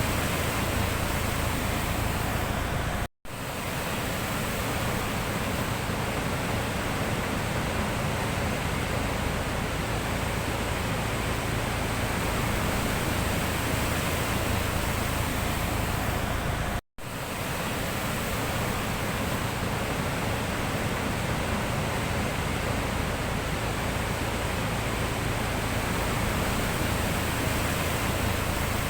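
Steady rushing sound of the sea, without distinct wave crashes. It cuts out to silence for an instant twice, about three seconds in and a little past halfway.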